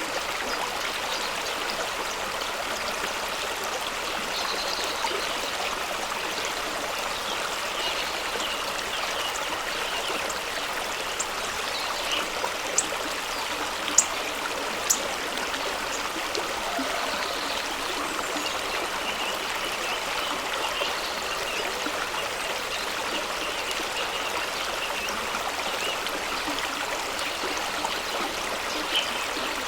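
Fast-flowing stream rushing over rocks: a steady, even water noise, with a few brief sharp splashes or clicks near the middle.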